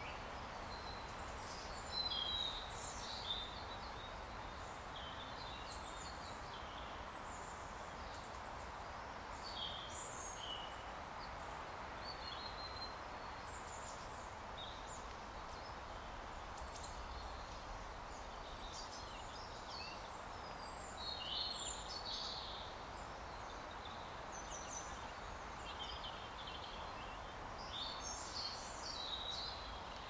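Woodland birds chirping and twittering in short, scattered calls over a steady background hiss of forest ambience, with a few louder calls about two seconds in, past the middle, and near the end.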